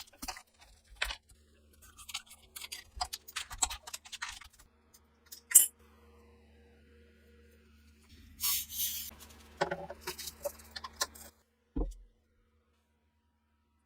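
Small metal gun parts being handled and fitted: a string of light clicks, clinks and scrapes, one sharp loud click about halfway, and a short hiss a little after, then silence for the last two seconds.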